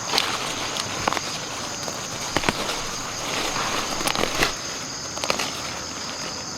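A steady high-pitched insect drone over an even outdoor hiss, with irregular sharp clicks and knocks, like footsteps or handling, scattered through.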